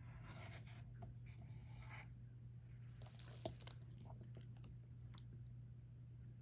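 Faint small clicks and scratchy rustles of diamond-painting work, with a drill pen picking up resin drills and pressing them onto the sticky canvas, over a steady low hum.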